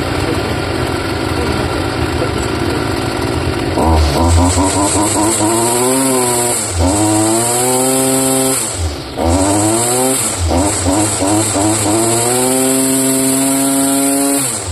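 Stihl grass trimmer's small two-stroke engine, hot-restarted after a carburettor adjustment, idling and then revved: the throttle opens about four seconds in, the pitch climbs, dips and climbs again a few times, holds high, and falls back to idle near the end.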